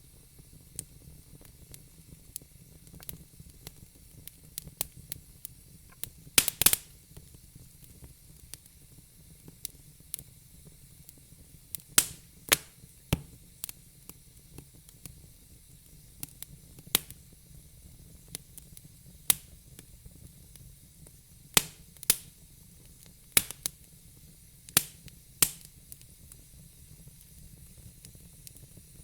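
Wood fire crackling: scattered sharp pops and snaps over a low, steady hiss, with a quick burst of loud pops about six seconds in.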